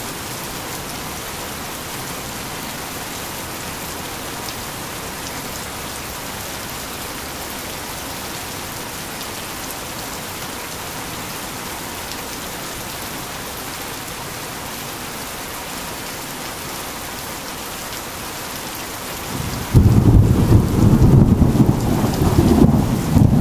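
Heavy rain falling steadily. Near the end, a loud, deep thunder rumble cuts in suddenly and keeps rolling.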